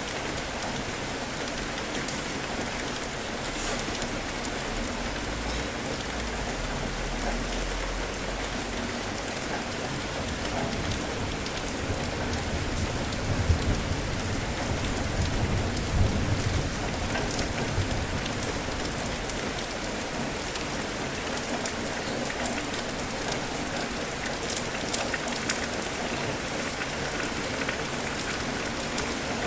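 Steady rain falling on surfaces, with a low rumble of thunder swelling through the middle.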